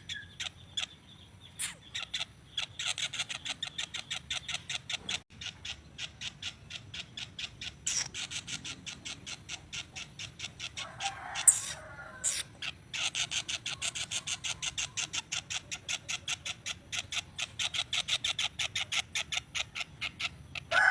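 A songbird calling in a long run of short, sharp, high chip notes, about five a second, with a brief pause early on and a harsher, louder call about eleven and a half seconds in.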